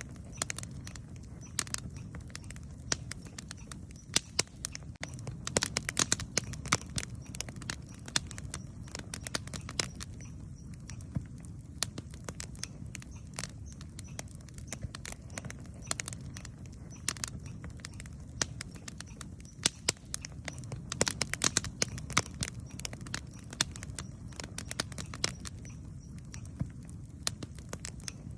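Campfire crackling: irregular sharp pops and snaps of burning wood, denser in clusters, over a steady low rumble.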